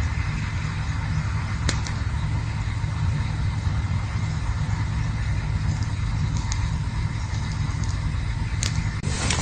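Campfire burning with a steady low rumble and a faint hiss, broken by a few sharp crackles about a second and a half, six and a half, and near nine seconds in.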